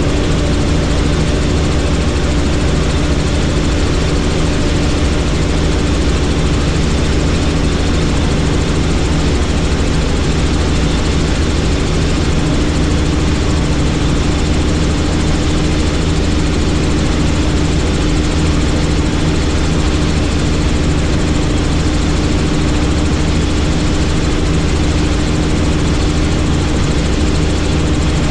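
Helicopter in flight: the steady roar of its rotor and turbine engine, heard from inside the cabin, unchanging.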